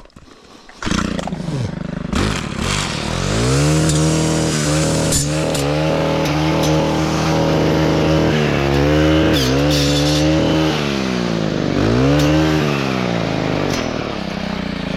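Stihl Kombi power head fitted with a 9-inch circular saw blade, throttled up to high revs to cut overhead branches. The engine speed rises and dips several times as the blade bites, then drops back toward idle near the end.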